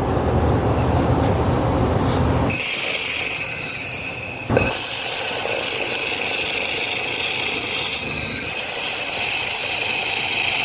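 Handheld laser welder tacking thin steel pipe: a steady high hiss and sizzle starts abruptly about two and a half seconds in, has a brief break, then runs on. Before it starts there is a lower rising noise.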